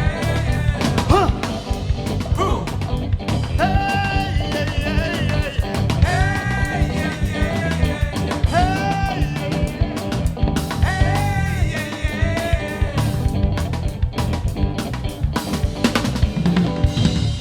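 A band playing with a drum kit, snare and bass drum keeping a steady beat, under a lead instrument that repeats a short phrase with bent notes about every two and a half seconds.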